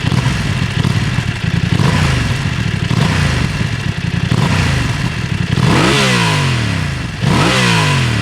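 BMW F900XR's 895 cc parallel twin through its stock Euro 5 exhaust, running low in the rev range with a bubbling V-twin-like note. Over the last couple of seconds the revs climb sharply and fall back in repeated surges about a second and a half apart.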